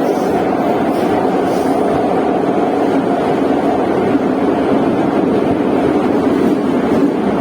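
Steady rumble of a metro train running at speed through a tunnel, heard from inside the carriage: wheels on rails and running gear with an even, unbroken noise.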